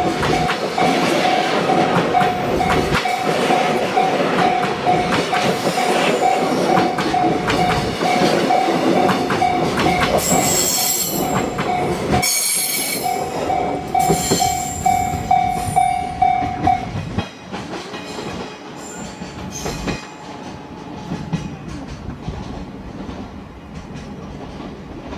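Freight train's wagons rolling by on the rails, with wheels clicking over the rail joints and a steady high-pitched wheel squeal. The squeal stops and the sound falls away about two thirds of the way through.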